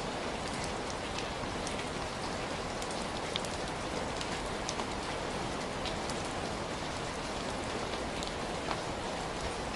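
Heavy rain falling steadily, a dense even hiss with scattered sharper patters of individual drops striking a surface.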